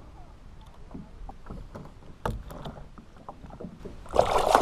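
Water lapping against a kayak with a few small knocks and taps from handling, then a loud splash and rush of water about four seconds in as a caught fish is put back into the water.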